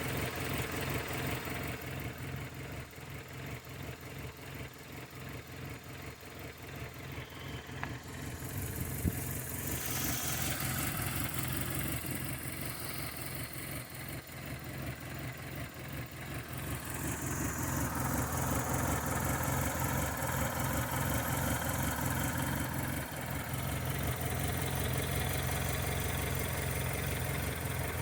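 1996 Toyota Corolla's four-cylinder engine idling roughly with a rhythmic pulsing that rises and falls in loudness, growing louder partway through. The owner is unsure whether a misfire, a belt or a manifold problem is behind it.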